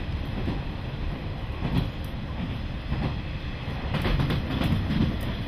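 Inside a KiHa 40 diesel railcar under way: a steady low rumble of the running train, with wheels clicking over rail joints a few times, most of them bunched together about four seconds in.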